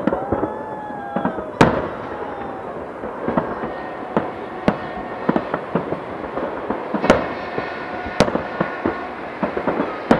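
Aerial firework shells bursting: an irregular string of sharp bangs over a steady background din, the loudest about one and a half, seven and eight seconds in.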